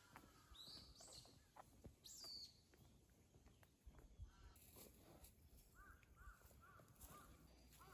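Faint outdoor bird calls. There are two short high calls in the first couple of seconds, then, from about six seconds in, a crow cawing repeatedly at about two to three caws a second.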